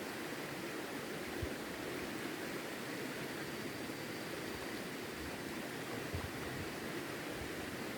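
Steady rushing of flowing river water, with one soft knock about one and a half seconds in.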